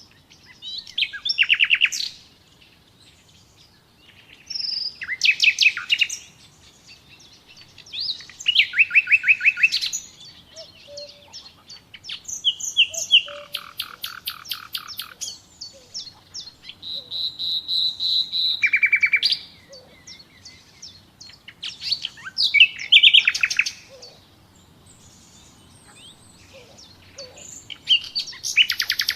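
Songbirds singing: about seven short, fast trilled phrases, several falling in pitch, each lasting a second or two, with pauses of a few seconds between them.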